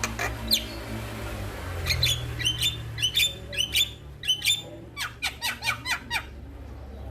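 Male Javan myna (jalak kebo) calling: a falling whistle near the start, then two runs of quick, clipped notes about two and five seconds in. A steady low hum runs underneath.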